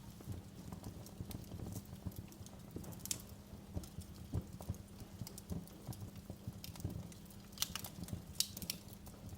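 Wood fire crackling in a fireplace: irregular snaps and pops over a low, steady rumble of the flames, with a few sharper pops about three seconds in and again near the end.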